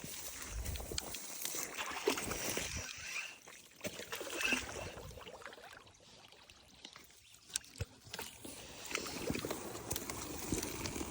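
Water splashing and sloshing unevenly, with scattered clicks and knocks.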